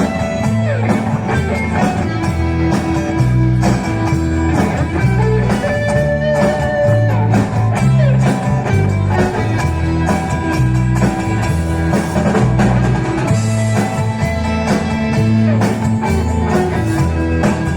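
Live band playing an instrumental passage on electric guitar and drum kit, with a steady beat and a repeating low bass line.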